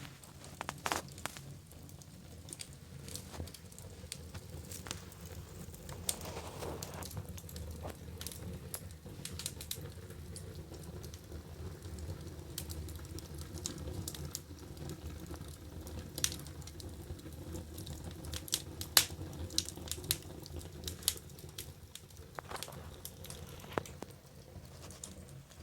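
Wood fire burning in a fireplace, crackling with irregular pops and snaps over a low, steady rumble of flame; one pop a little past two-thirds of the way through is louder than the rest.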